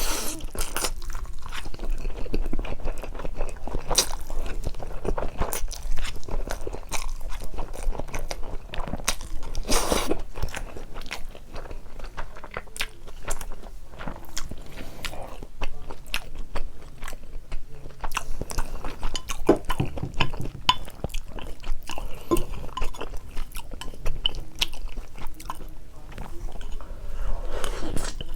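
Close-miked eating sounds: steady chewing and biting into spicy carbonara noodles with Spam and Vienna sausages, a dense run of small irregular wet clicks and smacks.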